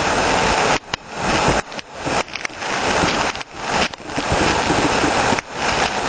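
Heavy hail and rain pelting down in a dense, loud hiss. The sound cuts out abruptly several times for a fraction of a second.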